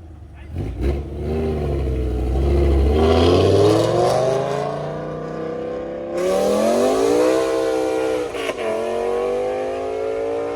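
A car engine accelerating hard through the gears, its pitch climbing steadily. There are two upshifts, about six and eight and a half seconds in, where the pitch drops and then climbs again.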